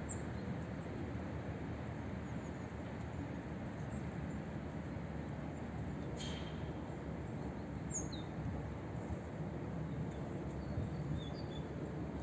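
Outdoor winter ambience: a steady low background rumble with a few short, high bird chirps scattered through, and one sharp click about six seconds in.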